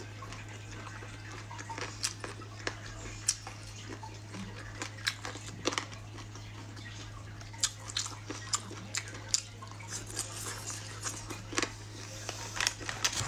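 Chewing on chicken feet: scattered sharp mouth clicks and smacks, coming thicker near the end, over a steady low hum.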